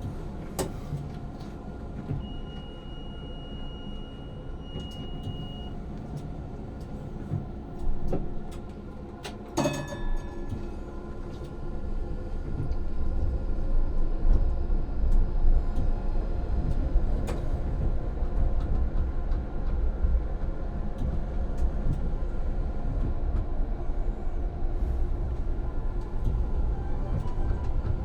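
Inside an electric tram's cab: a steady electrical hum, with a high steady beep for a few seconds and a sharp clunk about ten seconds in. After that a low rumble grows louder as the tram gets under way on the rails.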